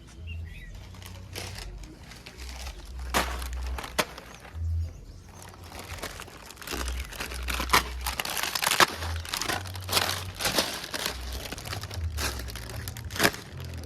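Irregular crinkling and crackling with many sharp clicks, denser in the second half, over a low rumble.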